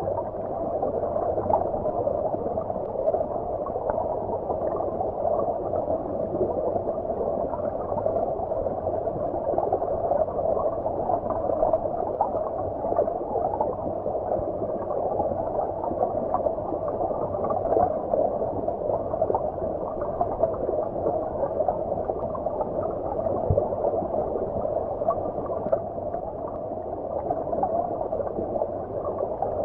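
Stream water flowing, heard muffled as if from underwater: a steady, dull rush with little high hiss.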